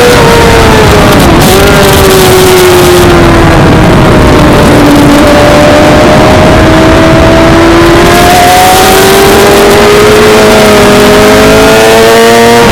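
Suzuki GSX-R600 inline-four sport bike engine at race pace, loud over wind noise. The revs fall off over the first few seconds as the bike slows, then climb steadily as it accelerates hard.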